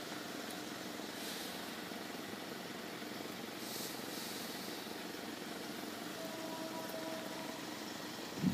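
A car engine idling faintly with a steady low hum.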